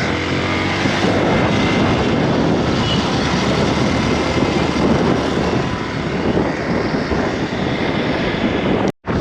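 Steady rushing noise of a moving road vehicle, engine and road noise mixed with wind on the microphone. The sound drops out abruptly for a moment near the end.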